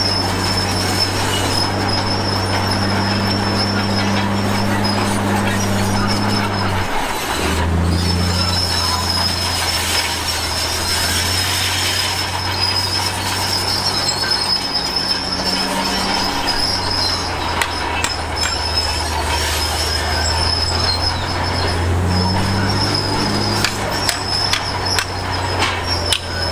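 Heavy diesel earthmoving machinery running steadily under work, with a thin, high, continuous squeal over the engine. The engine note drops and shifts about seven seconds in, and scattered clicks and clanks come in near the end.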